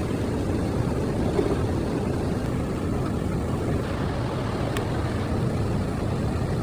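Waterfall and river water rushing in a steady, even roar that is heaviest in the low end.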